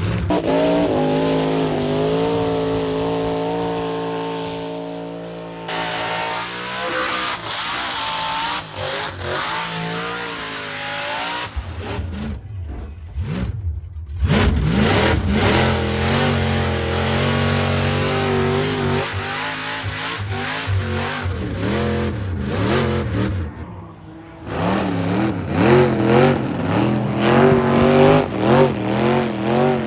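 A vehicle engine revving hard, its pitch rising and falling over and over, with sudden breaks and jumps in the sound several times.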